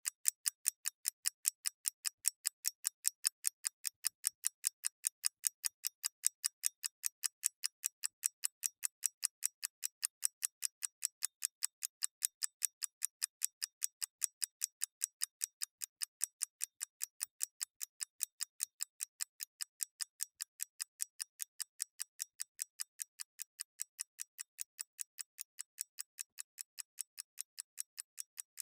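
Mechanical clockwork ticking: a rapid, steady run of sharp, evenly spaced ticks, about four a second, slowly getting quieter toward the end.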